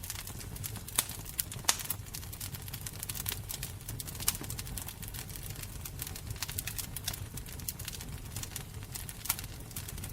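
Wood fire crackling: a steady low rumble of the flames with many irregular sharp pops and snaps, a few of them louder.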